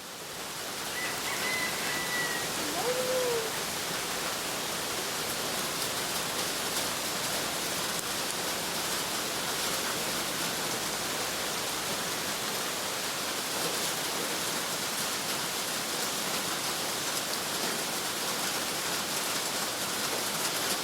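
Steady rain falling, an even hiss that holds throughout. A faint short call or two sound in the first few seconds.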